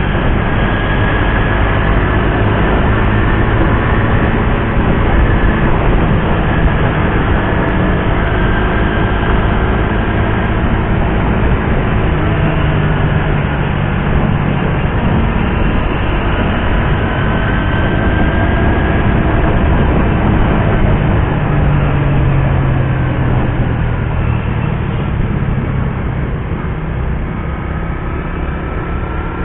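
Suzuki GSX-R150's single-cylinder engine running while riding, its pitch rising and falling several times with throttle and gear changes, over a steady low rumble.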